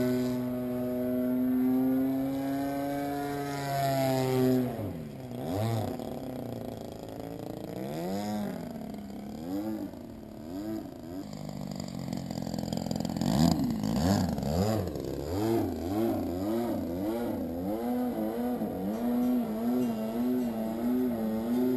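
DLE 20cc two-stroke gas engine of a radio-controlled Sukhoi Su-26 model airplane in flight, turning a 16x7 propeller. The pitch holds steady at first, drops sharply about four seconds in as the plane passes, then rises and falls over and over as it swoops and turns.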